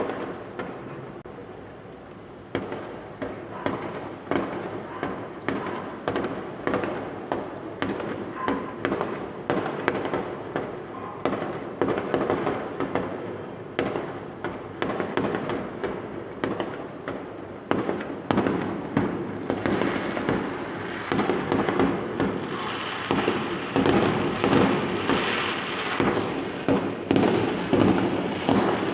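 Fireworks display: a steady string of sharp bangs, one to two a second, each trailing off in crackle. After a brief lull near the start, it grows denser and louder in the last third.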